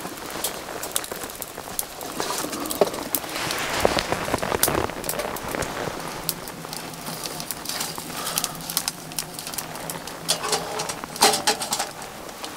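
Rain falling, with many single drops striking close by as sharp, irregular taps.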